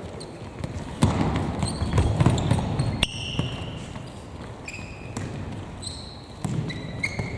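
Players' shoes squeaking on an indoor court floor in short, high chirps at varying pitches, with a few sharp thuds of a ball being kicked or bouncing, all echoing in a large hall.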